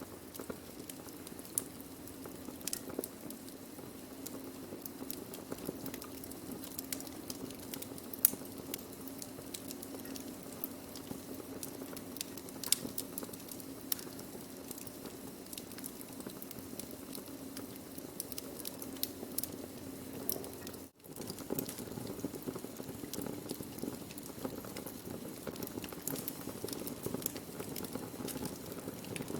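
Wood fire burning, with irregular sharp crackles and pops over a steady low hiss. The sound cuts out for a split second about two-thirds of the way through.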